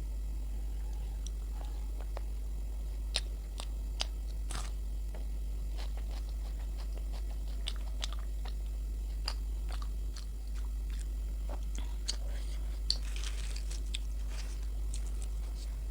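Close-miked chewing as someone eats luchi with potato curry, with scattered sharp mouth clicks and a denser patch of them near the end, over a steady low hum.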